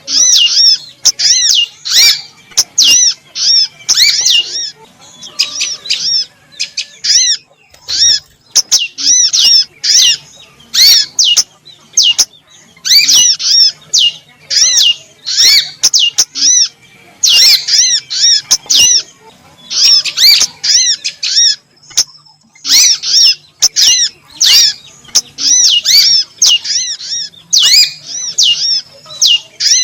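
Small songbird calls used as a lure, rapid runs of short, high, arching chirps repeated in bursts of a few seconds with brief pauses between, over a faint low hum.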